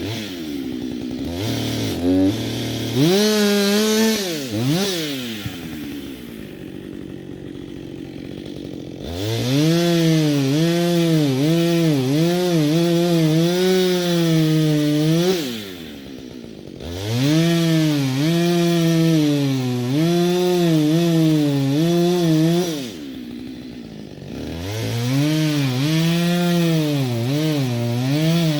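Two-stroke chainsaw cutting firewood: it revs up, idles for a few seconds, then makes three long cuts at high revs, its pitch wavering as the chain bites into the wood, dropping back briefly between cuts.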